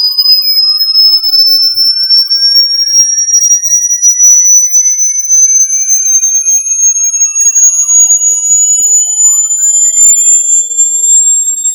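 Electronic test tone for pushing water out of a phone speaker: a loud, steady pure tone slowly rising in pitch, with a weaker tone also rising beneath it and faint tones gliding up and down.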